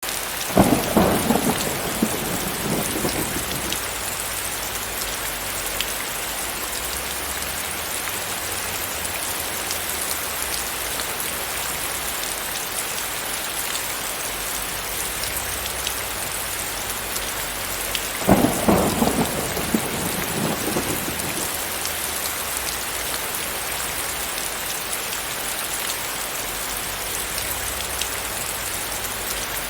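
Steady rain falling, an even hiss throughout. Two low rumbles of thunder are louder than the rain: one about half a second in and one about 18 seconds in, each dying away over about three seconds.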